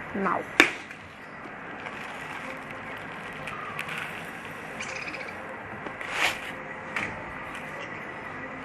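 Budgerigars chirping faintly and sporadically, with a single sharp click about half a second in.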